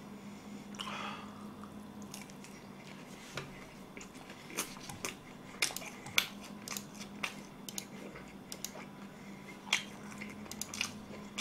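Chewing a mouthful of sauced fried chicken, close to the microphone: irregular soft clicks and wet mouth sounds over a faint steady hum.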